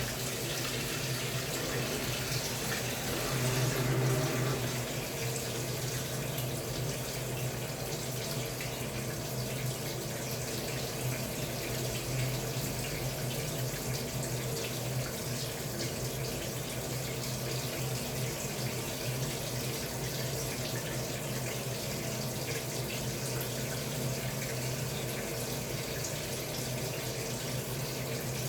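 Samsung Wobble 14 kg washing machine running with water: a steady rush of water over a low, even hum.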